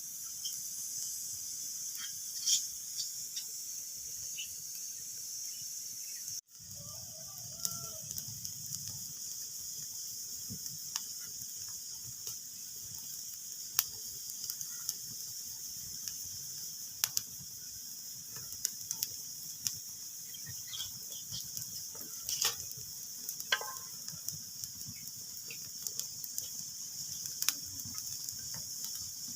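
Wood fire crackling in a fireplace: a steady hiss with irregular sharp pops and snaps, some much louder than others. The sound cuts out for an instant about six seconds in.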